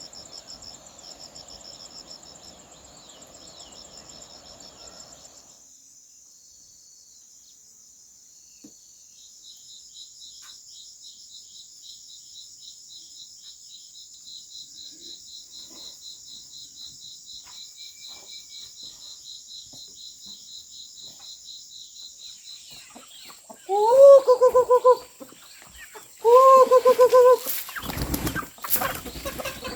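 Insects trilling in fast, high pulses. Near the end, two loud calls, each about a second long, rise in pitch and then hold, followed by a few loud knocks or rustles.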